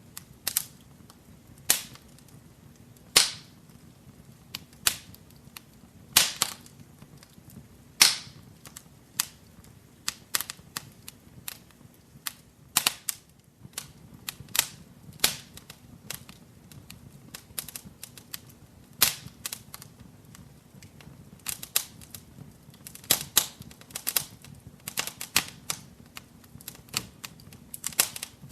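Wood fire in a fireplace crackling, with irregular sharp pops and snaps, a handful of them much louder, over a faint steady low hum.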